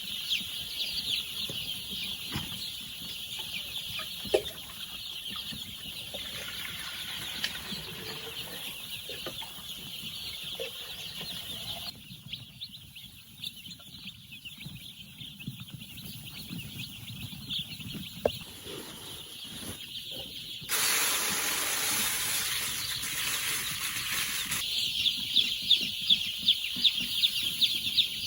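A flock of chickens calling, with many high-pitched peeps and clucks overlapping, and occasional wing flapping. In the second half a steady rushing noise covers them for about four seconds.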